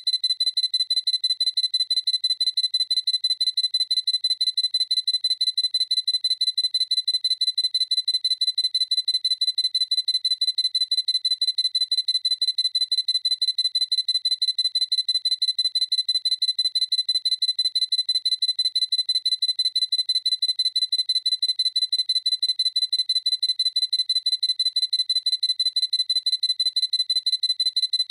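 Sony A7C camera's autofocus confirmation beep, a high electronic beep repeated rapidly and evenly over and over.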